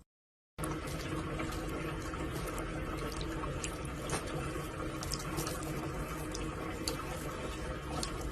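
Water running steadily, with a few faint clicks scattered through it. It starts suddenly just over half a second in.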